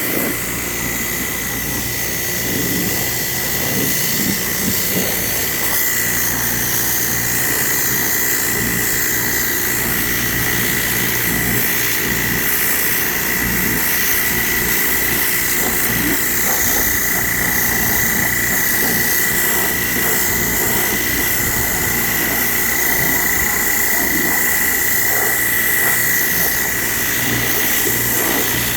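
Hotsy pressure washer running steadily on cold water with the boiler off, with a constant high whine, as its jet sprays onto concrete retaining wall blocks.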